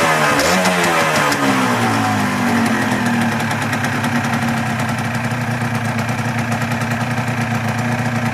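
Yamaha TZR125's single-cylinder two-stroke engine is blipped once about half a second in. The revs then fall away and settle into a steady idle after about three seconds.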